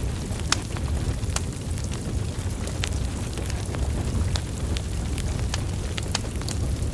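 Burning logs in a wood fire: a steady low rumble of flames with irregular sharp crackles and pops from the wood.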